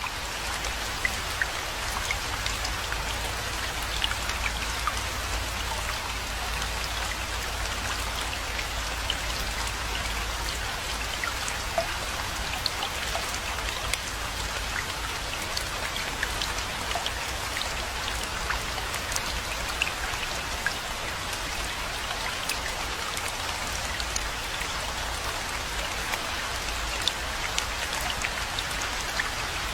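Steady rainfall: a dense, even hiss of rain with many separate drops ticking sharply against it, over a low steady rumble.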